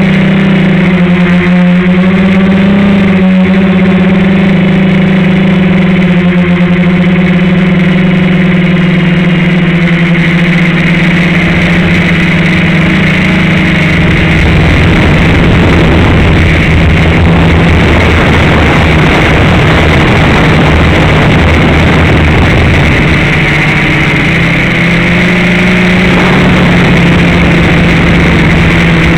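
FPV quadcopter's electric motors and propellers running loud and close to the microphone: a steady pitched drone that turns rougher and noisier about halfway through, settling again near the end as the throttle changes.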